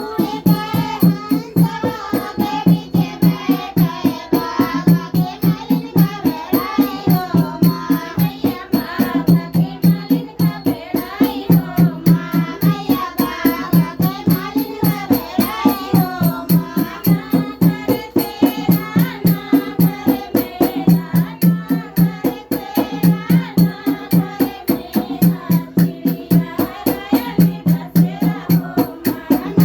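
Indian village devotional folk song: a voice singing a wavering melody over a fast, steady dholak beat, with a deep bass stroke about once a second.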